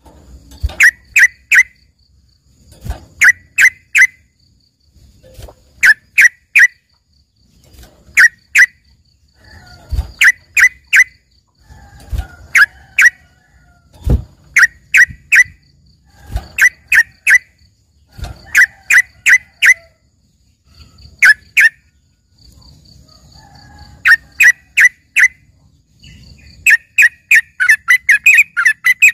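Yellow-vented bulbul (trucukan) singing loudly in short phrases of three or four sharp chirps, repeated about every two seconds, breaking into a fast unbroken run of chirps near the end. Its trained song is likened to a greater green leafbird's (cucak ijo).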